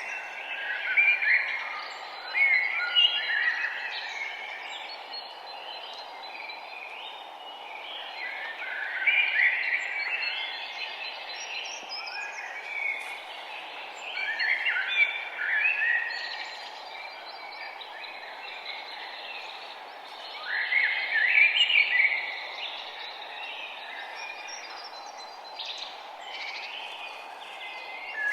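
Songbirds singing outdoors, a bright warbled phrase repeating every five or six seconds, over a steady low background hiss.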